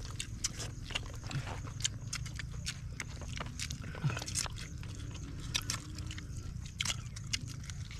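Several people chewing and biting into pieces of native chicken eaten by hand: a stream of irregular short smacks and clicks of mouths and teeth.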